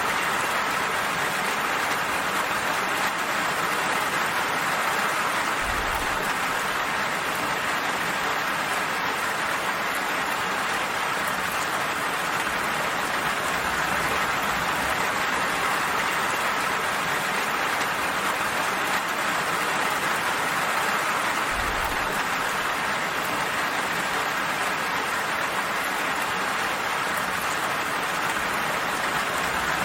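Steady rain falling, an even hiss of many drops. A brief low thud sounds twice, about six seconds in and again near twenty-two seconds.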